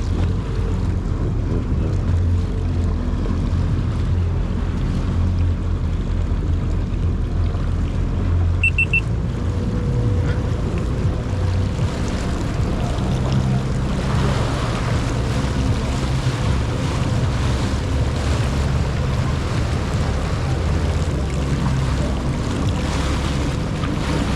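Jet ski engine running under way, with wind on the microphone and water rushing past; the engine note shifts to a different pitch about ten seconds in. A brief high triple beep sounds a little before that.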